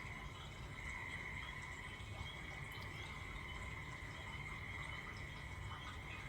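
Steady chorus of calling insects: an even high trill that runs without a break, with a fainter lower band beneath it and a low background rumble.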